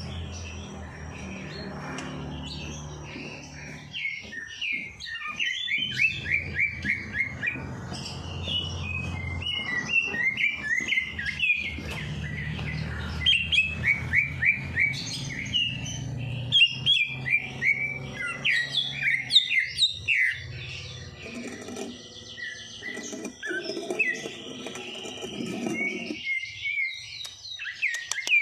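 Caged songbirds chirping and singing in fast runs of short high notes, sometimes overlapping. A low steady hum sits underneath and stops near the end.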